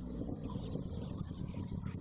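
Motorcycle engine with an aftermarket SC Project exhaust running steadily at low revs, a low even burble.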